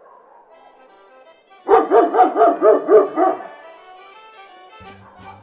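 A dog barking in a quick run of about nine high barks, over background music.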